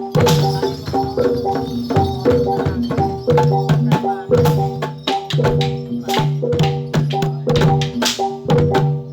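Javanese gamelan music for jathilan dance: metallophones ringing short repeated melodic notes over quick drum strokes in a steady, fast rhythm. Bright splashy crashes come just after the start and again about 8 seconds in.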